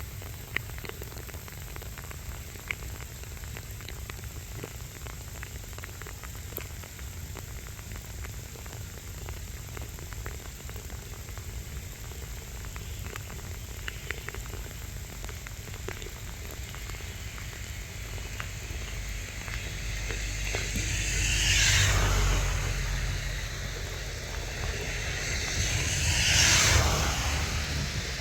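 Sleet falling: a steady hiss with scattered small ticks of pellets striking. Near the end, two louder swells of rushing noise, about five seconds apart, build and fade.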